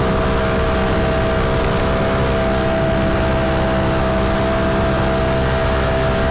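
Mini bike engine running at steady, held revs while riding, one unchanging engine note, with wind rushing over the helmet-mounted microphone.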